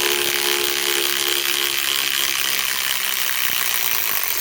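Ryobi PSBIW25 compact impact wrench running in reverse, hammering without a break as it backs a lag screw out of wood under heavy load. The motor whine and rapid impact rattle are loud and steady.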